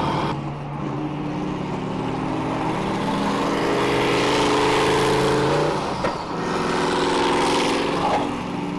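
Car engine accelerating hard, its note climbing steadily, then dropping sharply about six seconds in as it shifts up a gear, climbing again and dropping once more near the end at the next shift.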